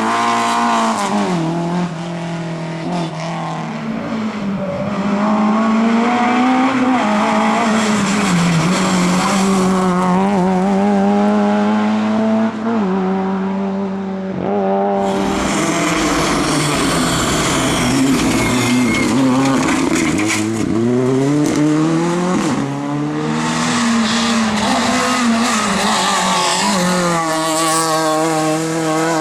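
Rally car engine run hard, its pitch climbing and dropping again and again through gear changes and lifts, with tyre noise and some tyre squeal. The high-pitched tyre and road noise grows louder about halfway through.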